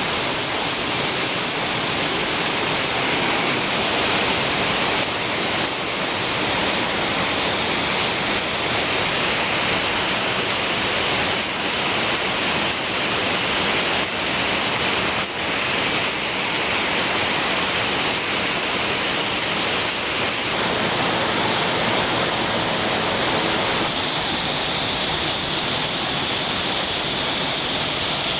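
Heavy rain pouring down in a steady dense hiss, with the rumble of strong wind.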